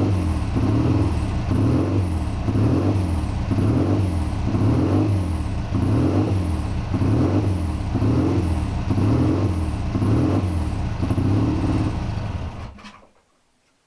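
Triumph Bonneville T120's 650 cc parallel-twin engine running at a steady idle, with an even rise and fall about twice a second. It stops near the end.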